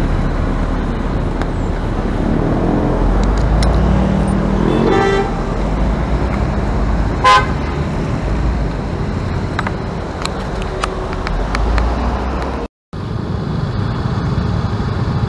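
Road traffic with a steady low engine and road rumble, and two brief car-horn toots about five and seven seconds in. The second toot is the louder and sharper one.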